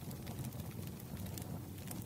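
Fireplace fire burning with a steady low rumble and a few faint, scattered crackles.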